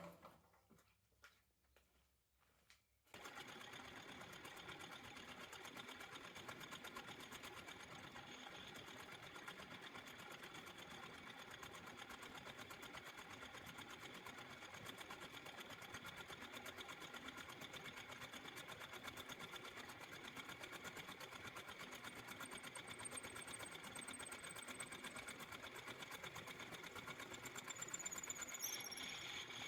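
A small motor-driven workshop machine starts suddenly about three seconds in and runs steadily with a fast, even rhythm.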